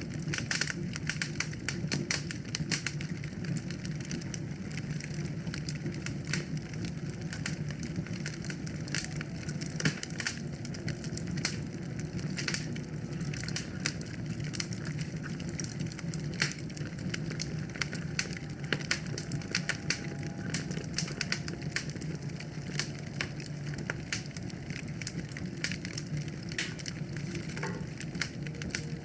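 Wood fire burning in a fireplace, crackling with many irregular small sharp pops over a steady low background.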